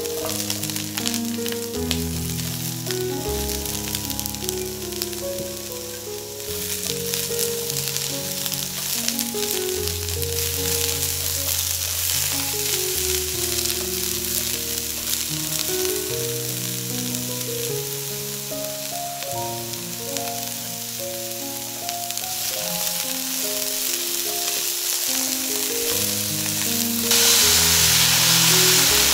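Broccoli sizzling as it fries in oil in a hot wok, stirred and turned with a spatula. Near the end, water is added to the pan and the sizzle jumps to a much louder hiss.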